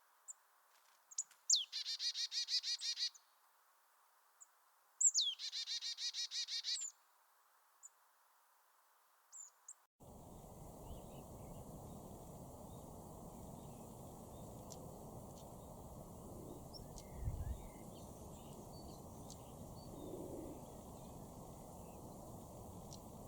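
A small bird singing two rapid trilled phrases, each about a second and a half long, with short call notes around them. Partway through there is a cut to a steady outdoor background with faint scattered chirps.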